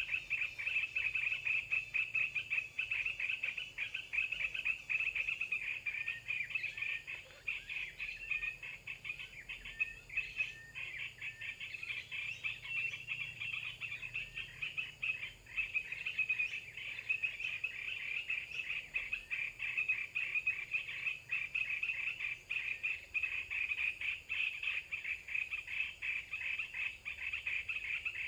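A dense chorus of calling animals, a rapid pulsing trill that runs on steadily, with a few short bird chirps in among it in the first half.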